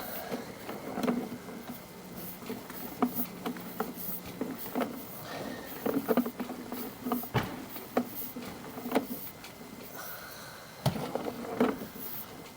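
Roofing equipment at work: irregular sharp knocks and clicks, two of them heavier about 7.5 and 11 seconds in, over a steady low hum that stops about four and a half seconds in.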